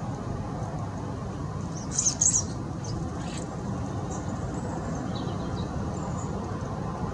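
Small garden birds chirping: a quick cluster of loud, high chirps about two seconds in, then a few scattered fainter calls, over a steady low background rumble.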